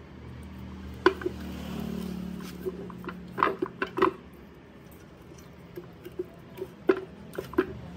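Scattered sharp clicks and light knocks, with a quick cluster of them about three and a half seconds in and a few more near the end, over a faint low hum.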